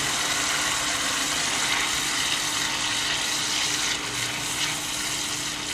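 Tomato-puree masala sizzling steadily in a non-stick kadai on a gas flame while it is stirred with a silicone spatula.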